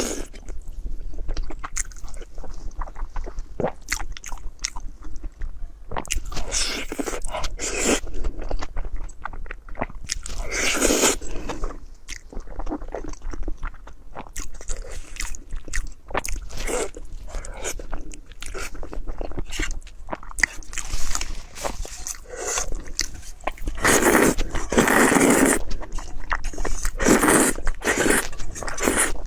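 Close-miked eating: a person biting, crunching and chewing food, with many short crisp clicks and a few longer noisy stretches.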